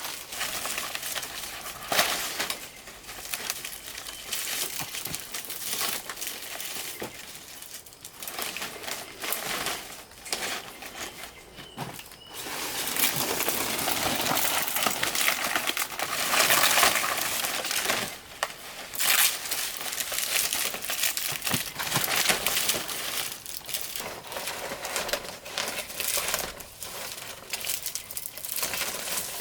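Rustling, crinkling handling noise with many small irregular clicks, and a louder stretch of dense, steady rasping noise in the middle.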